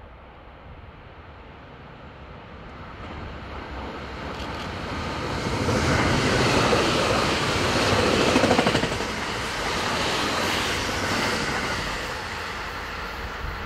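Thunderbird limited express electric train passing through the station at speed. Its sound builds from about two seconds in, is loudest in the middle, and fades away toward the end.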